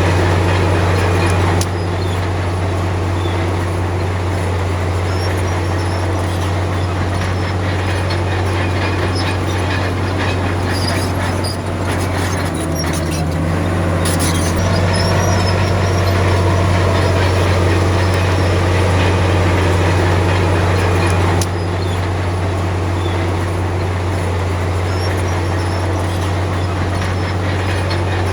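Komatsu D53P crawler bulldozer's diesel engine running steadily under load, with the clanking rattle of its steel tracks.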